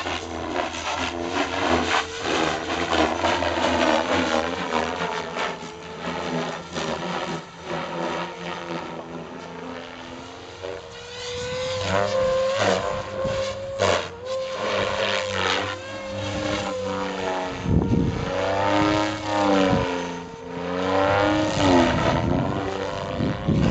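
Three-bladed Goblin RC helicopter flying hard 3D manoeuvres: the rotor and motor whine keeps rising and falling in pitch, with short rushing swells as the blades load up.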